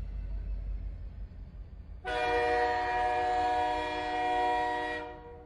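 A train horn sounding one long chord for about three seconds, starting about two seconds in and fading out near the end, after a low rumble that dies away.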